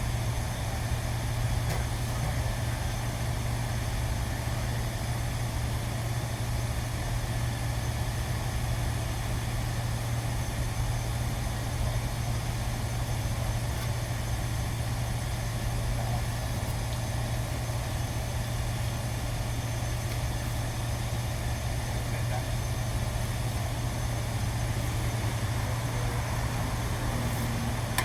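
Steady low hum of running machinery, unchanging throughout.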